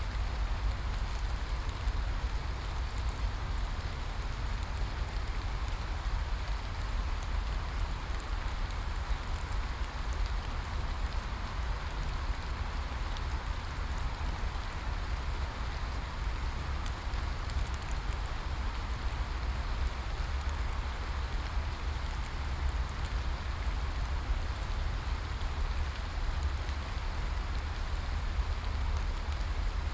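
Steady rain falling, an even hiss with a deep rumble underneath and scattered faint drop ticks, unchanging throughout.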